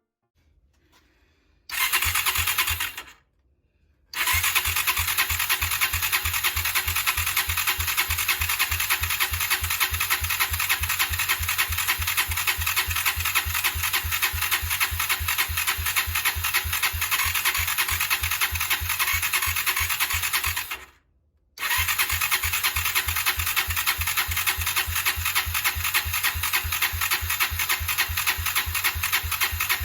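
Honda GB250's electric starter cranking the single-cylinder engine in long runs with an even, rhythmic chug, breaking off abruptly twice.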